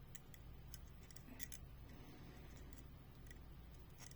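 Faint, irregular light clicks of a small screw-in trailer hitch being worked against the hole of a diecast toy car, failing to thread, over a low room hum.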